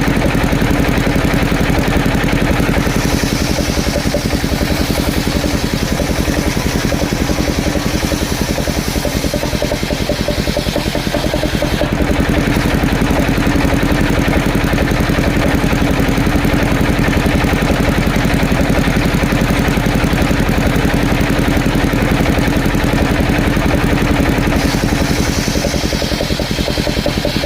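Engine of a mobile circular sawmill running steadily.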